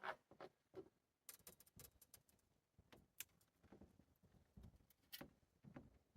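Faint, irregular clicks and knocks, like small parts and materials being handled, with no steady machine sound.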